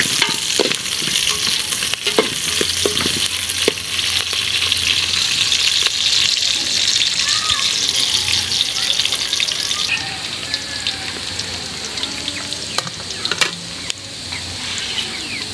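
Ginger and onion sizzling as they sauté in a metal pot, with a metal ladle scraping and clinking against the pot. The sizzle drops noticeably about two-thirds of the way through.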